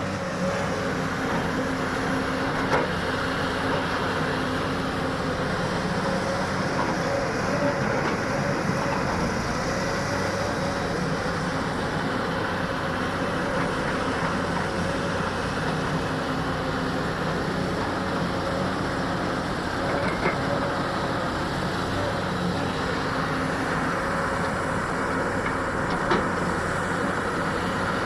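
Heavy diesel machinery of a Hyundai excavator loading a dump truck running steadily, with a few sharp knocks along the way.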